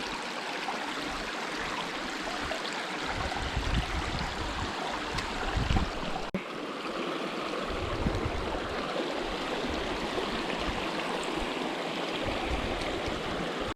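Water of a small woodland stream running steadily into a pool, with some low buffeting on the microphone a few seconds in.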